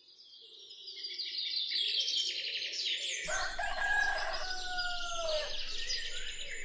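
Small birds chirping, fading in from silence, joined about three seconds in by a rooster's long crow.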